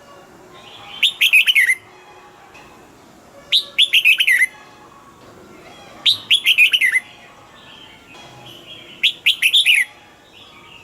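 Red-whiskered bulbul singing: four short, bright phrases, each a quick run of falling whistled notes, coming about every two and a half to three seconds.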